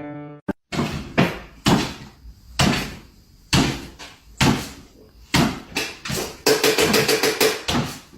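Repeated bangs and knocks, about one a second, with a quick rattling run of knocks near the end, like a door or cupboard being knocked or shaken.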